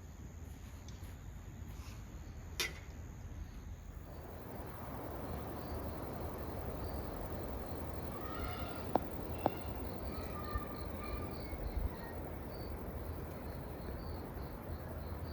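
Outdoor ambience with birds calling in the middle and a faint, rapidly repeated high chirping like insects, broken by a few sharp clicks.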